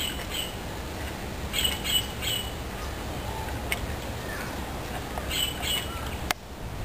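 Birds squawking and chirping in short groups of two or three calls, over a steady low rumble of wind on the microphone, with a couple of faint clicks.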